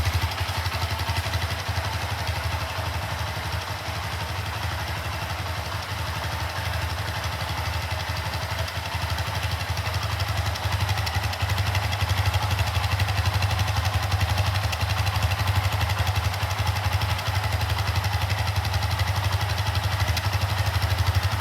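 Honda FTR223's air-cooled 223 cc single-cylinder engine running steadily at idle.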